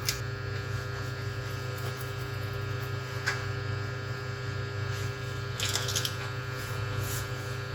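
Steady electrical hum from bench equipment, with a few faint clicks and taps about three and six seconds in.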